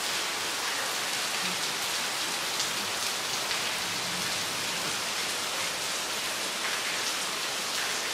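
Steady rain falling onto a water-covered street, an even, unbroken hiss.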